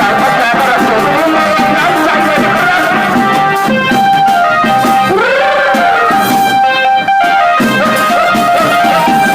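Thai brass band (trae wong) playing a tune on brass and reed instruments with drums. About five seconds in, one note swoops up and back down, and the music breaks off for an instant a couple of seconds later.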